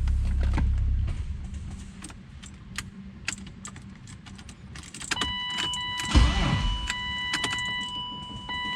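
BMW E36 starter cranking the engine without it firing, stopping about a second in, on a battery the owner believes is too dead. Scattered clicks follow, then from about five seconds a steady electronic tone with a single loud thud near six seconds.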